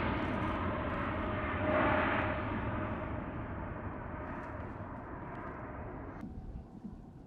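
Jet airliner's engines on departure, a broad rushing noise that fades and dulls as the aircraft climbs away, then drops off suddenly about six seconds in.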